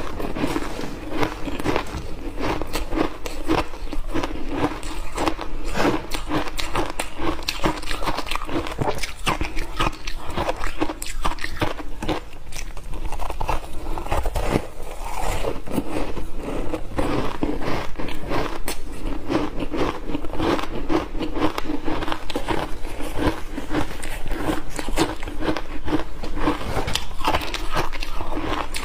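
Refrozen block ice, dusted with matcha tea powder and milk powder, bitten and chewed in big bites: a steady, dense run of crunching and crackling.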